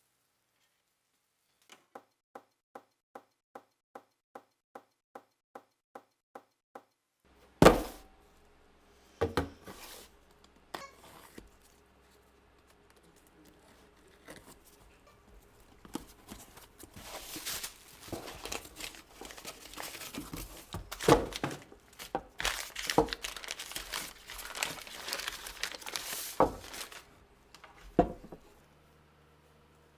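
About a dozen short, evenly spaced beeps, roughly two a second, then a loud thunk followed by knocks and a long crinkling, rustling stretch of handling noise, with several sharp knocks.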